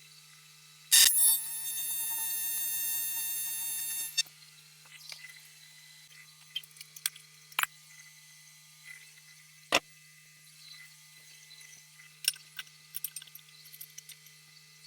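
AC TIG welding arc on aluminum: the arc strikes with a loud crack about a second in, buzzes steadily and high-pitched for about three seconds, then cuts off. Light scattered clicks follow over a low steady hum.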